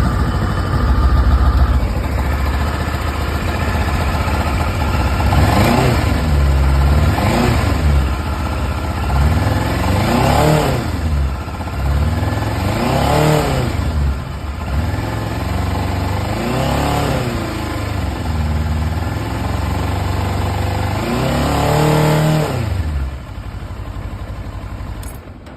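Kawasaki Ninja 650's parallel-twin engine through its stock muffler, idling and then blipped six times, each rev rising and falling back to idle.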